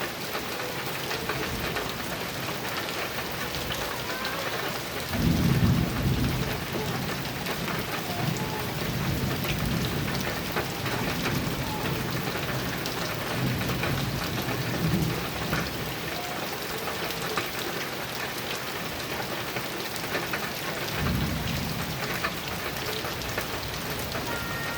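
Heavy rain falling steadily on a metal roof. Low rolls of thunder start about five seconds in and come again near the end.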